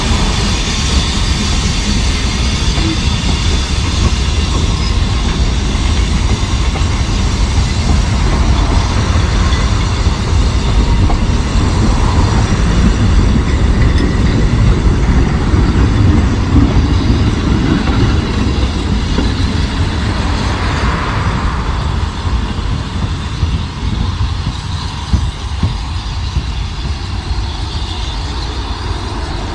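Vintage narrow-gauge railway carriages of a steam train rolling past close by, their wheels clattering over the rail joints. The noise eases off over the last several seconds as the train draws away.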